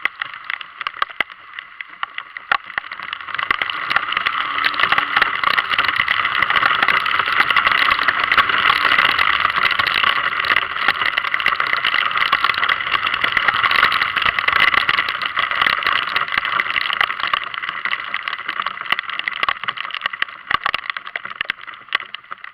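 Heavy rain pattering with a dense crackle that grows heavier a few seconds in and eases off near the end.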